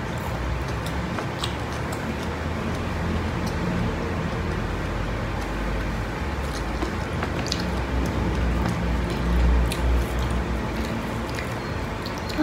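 People chewing food up close, with scattered small mouth clicks and smacks, over a steady low hum.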